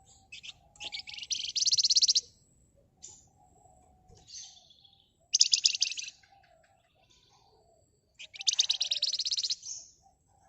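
Javan fulvetta (wergan Jawa, the songbird kept as "flamboyan") singing: three loud, rapid rattling trills of one to one and a half seconds each, with soft short calls between.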